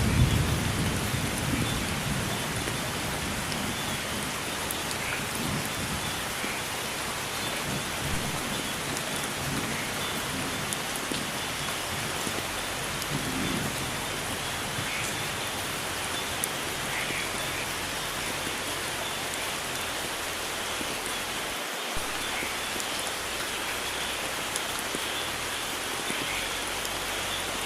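Steady, heavy rainfall hissing evenly, with the tail of a low thunder rumble fading out in the first couple of seconds.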